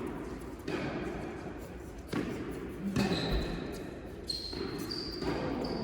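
A tennis rally on an indoor court: about five sharp pops as the ball is struck by rackets and bounces on the court, roughly one every second, each ringing on in the echo of the hall.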